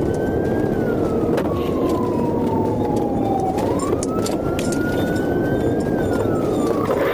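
Police car siren on wail, its pitch sliding slowly down, jumping back up about three and a half seconds in, then sliding down again, over steady road and engine noise from a moving vehicle.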